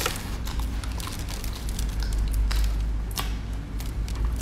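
People chewing soft cream cake: wet, squishy mouth sounds with a few sharp clicks, over a steady low rumble.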